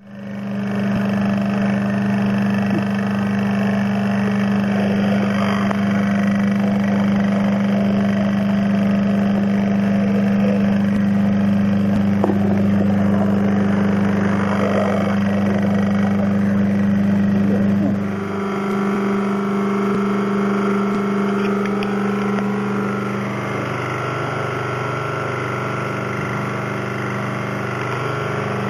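An electric motor running steadily with a loud, low hum. About 18 seconds in its sound changes: the deep hum drops away and a higher steady tone takes over.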